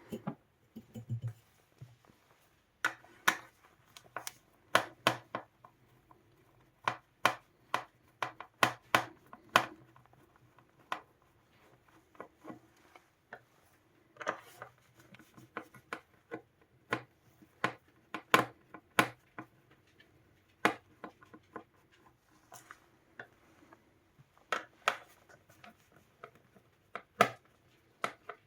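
Irregular sharp clicks and taps, a few a second in clusters, from hard parts and tools being handled and set down during electronics repair work, over a faint steady low hum.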